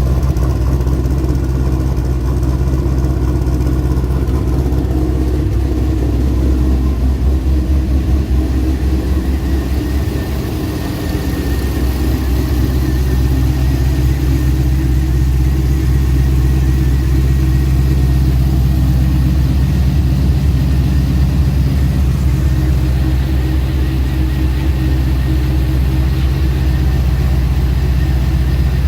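Twin-turbo GTO engine idling steadily with an even, low rumble, briefly dipping in level about ten seconds in.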